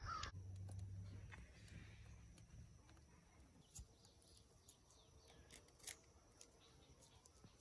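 Near silence: faint outdoor background with a low hum over the first two seconds or so and a few scattered soft clicks.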